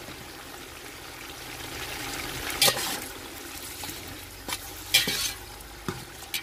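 Diced tomatoes and green chillies sizzling in hot oil with fried onions in a large metal pot, stirred with a slotted metal spatula that clinks and scrapes against the pot about five times.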